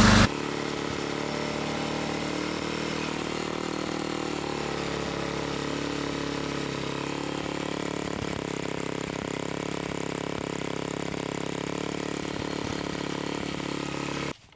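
Murray Ultra 8/27 snowblower's 8 hp engine running steadily at an even speed.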